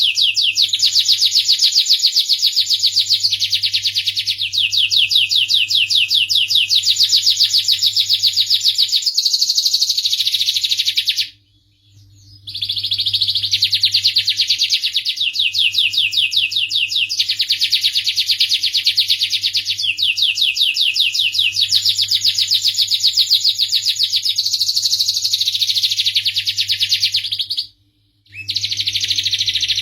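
Domestic canary singing long, fast rolling trills in continuous phrases. The song stops briefly twice, near the middle and near the end.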